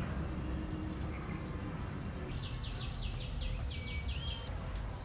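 A bird calling: a quick run of about ten chirps over two seconds, starting about two seconds in and ending in a short whistle, over a steady low rumble.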